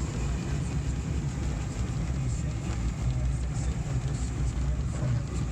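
Steady low rumble of a vehicle driving, heard from inside the cab, with a haze of wind and road noise over it.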